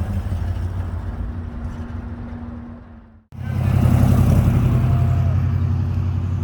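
Car engines running low and steady as cars drive past. The first fades and cuts off about halfway through, then a louder, deeper engine comes in suddenly.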